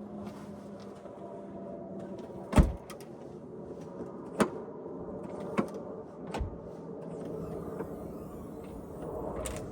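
Four sharp knocks, the first about two and a half seconds in and the loudest, over a steady mechanical hum with a low tone.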